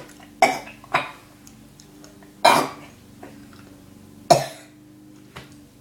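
A person coughing four times in short, harsh bursts, the third the longest, reacting to a mouthful of Turkish Delight they dislike.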